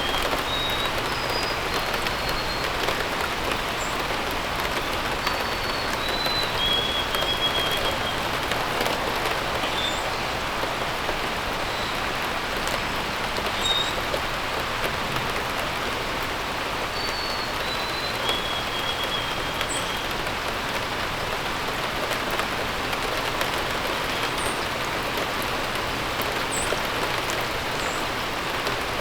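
Steady rain falling, with a bird singing short phrases of clear whistled notes three times and brief high chirps scattered through.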